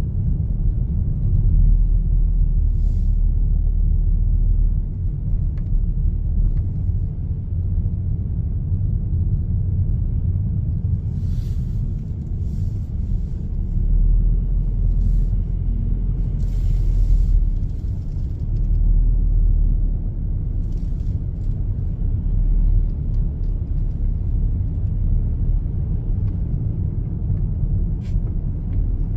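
Steady low rumble of a car driving, engine and tyre noise on the road, with a few brief faint hisses.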